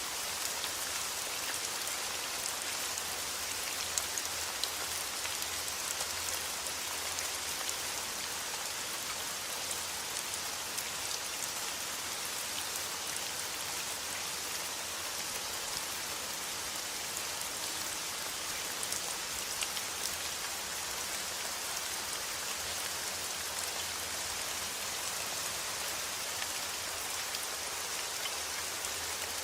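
Steady rain falling on a surface: an even hiss with scattered sharper drop ticks.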